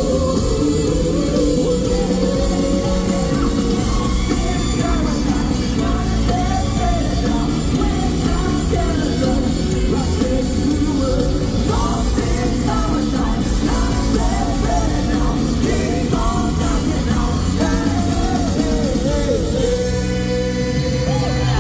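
Live funk band playing loudly, a steady groove of drums and bass with a wavering lead melody line riding above it.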